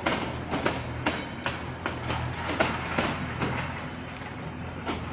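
Narrow-gauge train coaches rolling slowly past, their wheels clacking unevenly over the rail joints, a few knocks a second, over a low hum. The clacks thin out after about three and a half seconds as the last coach goes by.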